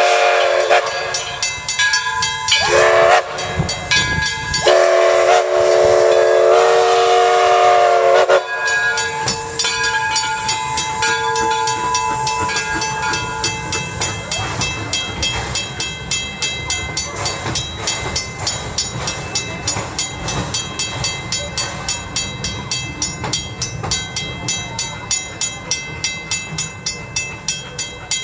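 Locomotive whistle sounding a chord in two long blasts, the usual signal that the train is about to move forward, followed by the train pulling away with a rhythmic beat that steadily quickens as it gathers speed.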